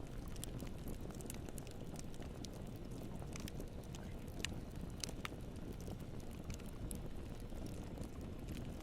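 Campfire burning: a steady low rumble of flames with frequent small crackles and pops of burning wood, a couple of sharper pops about four and a half and five seconds in.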